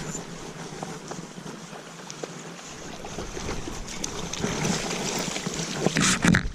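Creek water flowing steadily, with scattered faint ticks, growing a little louder after a few seconds and with a brief louder rush near the end.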